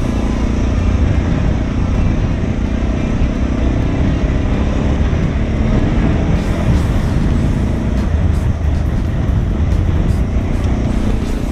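Suzuki DR650's single-cylinder engine running steadily while the motorcycle rides a gravel dirt track, with heavy wind rumble on the microphone.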